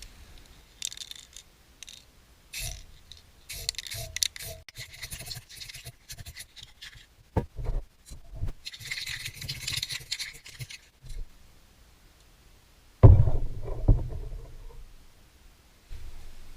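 Hand work scraping and rubbing in several short stretches, with scattered clicks, then a loud clunk about thirteen seconds in that rings briefly as it fades.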